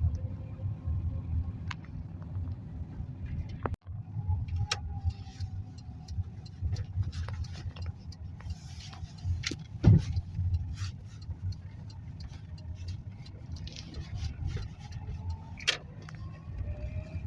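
A car driving: steady low rumble of engine and road, with frequent clicks and rattles throughout and a sharper knock about ten seconds in. The sound briefly cuts out about four seconds in.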